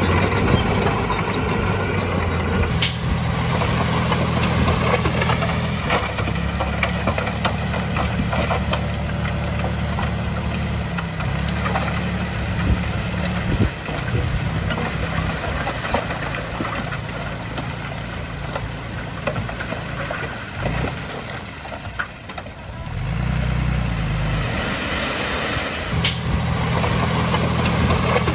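Heavy diesel engine of a working bulldozer running steadily, with clanking and crackling over it. The engine sound drops for a moment about three-quarters of the way through, then picks up again.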